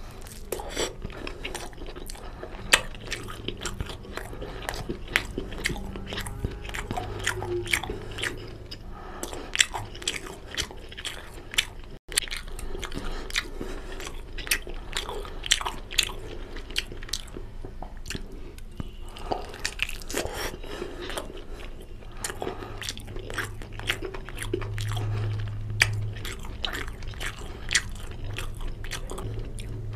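Close-miked eating: a person biting and chewing pieces of mutton in curry, a dense stream of sharp wet mouth clicks and crunches.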